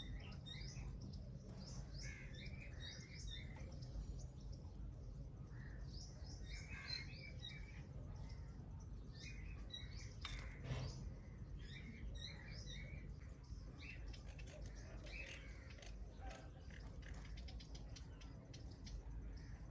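Birds chirping in short, repeated high notes, over a low steady background hum, with one sharp click about ten and a half seconds in.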